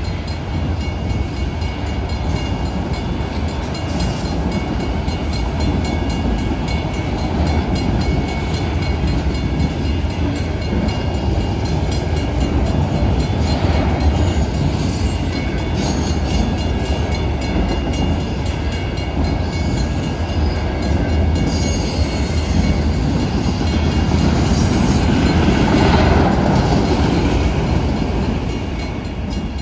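A Norfolk Southern manifest freight train's cars rolling steadily past on the rails, a continuous loud rumble. Brief high-pitched squeals come in a little past the middle.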